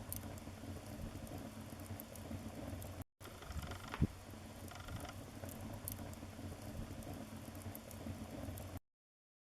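Wood fire burning in a fireplace: a steady low rush of flames with small crackles and one louder pop about four seconds in. The sound drops out for a moment near three seconds and cuts off suddenly near the end.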